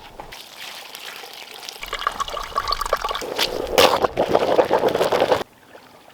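Water pouring and splashing, growing louder, then cutting off suddenly about five and a half seconds in.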